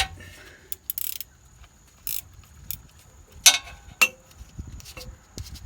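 Irregular metallic clicks and clinks of a 15 mm wrench working the oil drain plug loose on the oil pan, with two louder clanks about three and a half and four seconds in.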